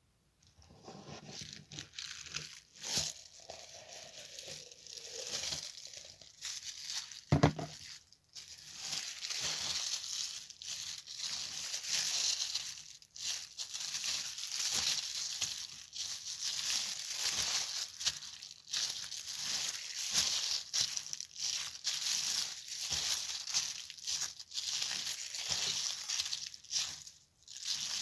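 Slime being squeezed and worked by hand, giving a dense, continuous crackle of small popping clicks, with one louder knock about seven seconds in.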